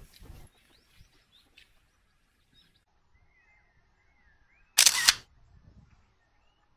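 Faint bird chirps, broken a little before the five-second mark by one loud, sharp burst of noise about half a second long.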